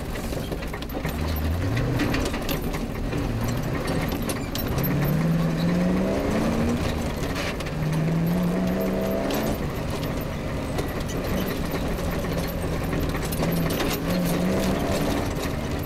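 Off-road rally vehicle's engine pulling hard, its pitch climbing several times as it works up through the gears and then running steadier. Short knocks and rattles come through as it drives over a rough grass track.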